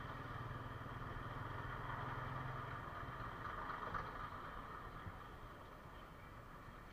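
TVS Apache RTR 160 motorcycle's single-cylinder four-stroke engine running at low road speed, fairly faint. A steady low hum under it fades out about three seconds in.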